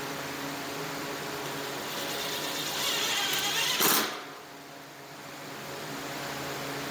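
Small electric polishing machine running steadily. About three seconds in its sound grows louder and harsher, peaks just before four seconds, then drops abruptly and builds back up over the next two seconds.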